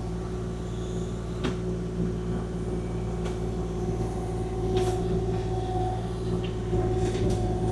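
Kubota KX040-4 mini excavator's diesel engine running steadily while the bucket works, with a steady hum over it and a few brief knocks.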